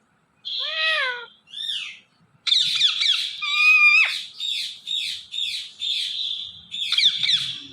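Indian ringneck parrot calling: two short squawks, then from about two and a half seconds in a fast run of harsh chattering notes, about three or four a second, without words.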